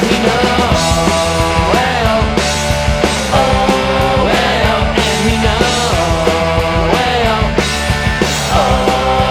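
Punk power-pop rock trio playing loud and steady: distorted electric guitar, bass and drums keeping a driving beat, with a melodic line that slides up and down in pitch every few seconds.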